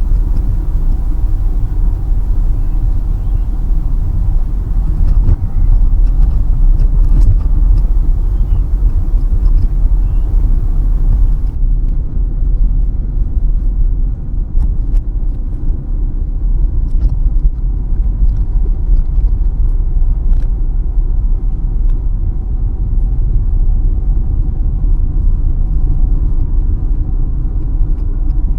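Steady low rumble of a car's engine and road noise heard from inside the cabin while driving. A higher hiss over the rumble falls away suddenly about eleven seconds in.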